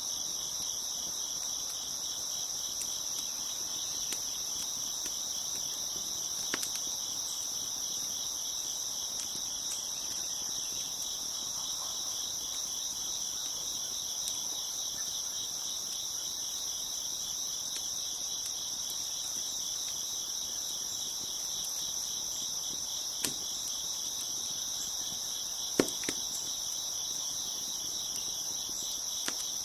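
A dense chorus of crickets chirping steadily in fast, even pulses, with a few sharp pops from a crackling wood fire, the loudest shortly before the end.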